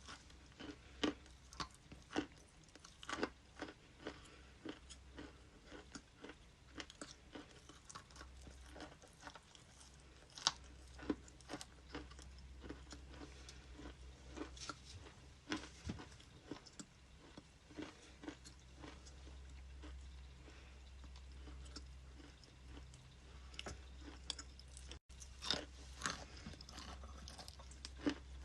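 A person biting and chewing wet ice close to the microphone: sharp, irregular crunches one after another. A steady low hum runs underneath.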